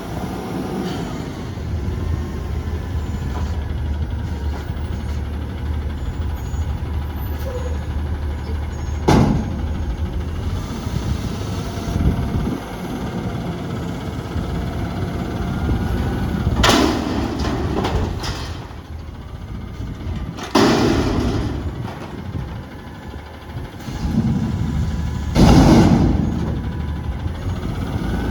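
Front-loader garbage truck working: its diesel engine running steadily with a low rumble, a sharp bang about nine seconds in, and three loud noisy bursts later on, each about a second long.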